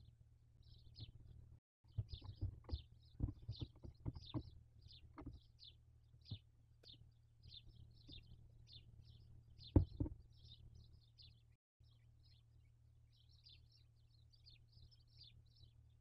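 Small birds chirping in quick, short, high notes, two or three a second, over a faint low hum. A cluster of dull knocks and scuffs comes in the first few seconds, and the loudest pair of knocks comes about ten seconds in.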